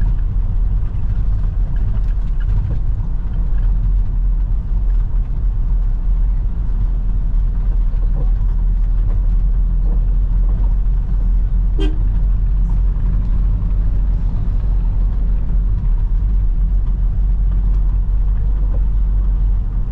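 Steady low engine rumble of a moving vehicle, with one short horn toot about halfway through.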